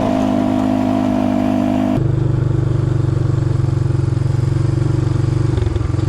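Engine running steadily. It switches abruptly about two seconds in to a lower, rapidly pulsing engine note, like a small engine idling.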